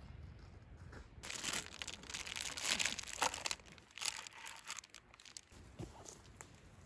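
Crinkling, rustling handling noise in two spells, the first longer, with a couple of soft knocks near the end.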